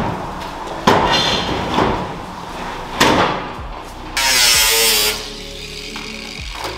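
Knocks and clatter of hand work, with a hiss of about a second in the middle, like a burst from an aerosol spray can.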